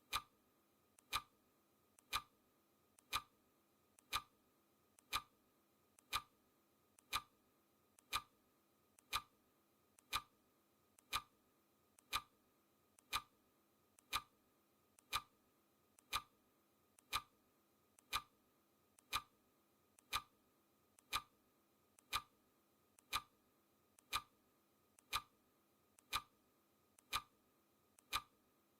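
Clock ticking sound effect: a sharp tick about once a second, with a fainter click between the ticks, keeping an even rhythm.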